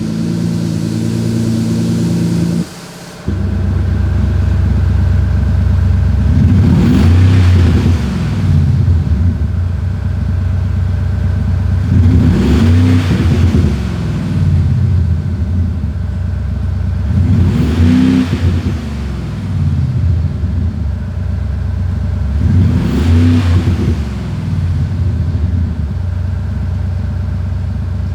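Synthesized V8-style exhaust note played through THOR electronic exhaust speakers fitted to a Mercedes CLA 200 diesel: a steady idle burble with four revs, each rising and falling back, about five seconds apart.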